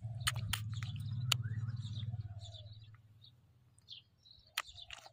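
Small birds chirping and calling outdoors, with a low buzzing hum over the first two to three seconds that fades away, and a few sharp clicks.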